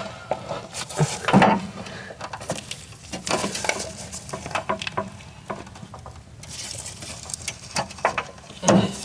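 Hand tools and metal mower parts clicking, knocking and scraping irregularly as the drive belt and its tensioner are worked on by hand.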